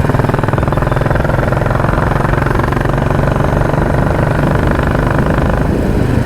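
Royal Enfield Classic 350's single-cylinder engine running at a steady pace under way through its loud exhaust, a fast, even beat of exhaust pulses.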